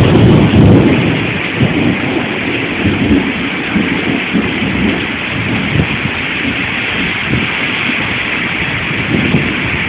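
Heavy storm rain with strong wind gusts buffeting the phone's microphone. The deep buffeting is loudest in the first second, then settles into a steady, dense rush of rain and wind.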